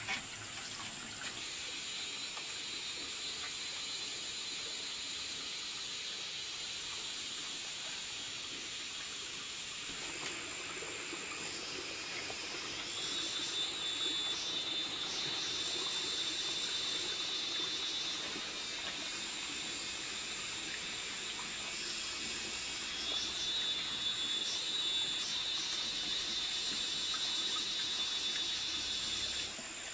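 Water running steadily, with a high, thin buzzing over it that comes and goes in long stretches.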